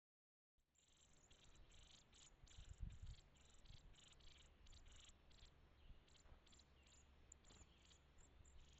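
Crickets chirping faintly: a run of short, high chirps repeating several times a second, with a low thump about three seconds in.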